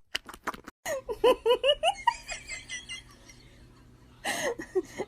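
A person laughing in a quick run of short bursts that fades off and comes back near the end, after a few clicks at the start.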